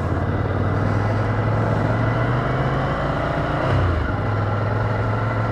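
Ducati Scrambler's air-cooled L-twin engine running as the motorcycle pulls away. Its note climbs a little, drops briefly about three and a half seconds in, then runs on steadily.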